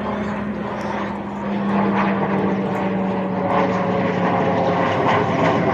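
Pilatus PC-21 turboprop trainer flying over, a steady propeller and turbine hum growing louder. Its pitch drops slightly later on.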